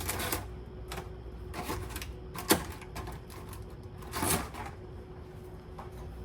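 Grocery packages being handled and set down: a few separate knocks and clicks, the loudest about two and a half seconds in and a longer rattle a little after four seconds, over a faint steady hum.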